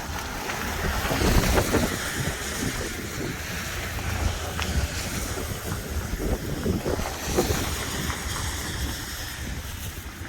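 Wind buffeting the microphone: an uneven, gusty rumble, with a few short knocks through it.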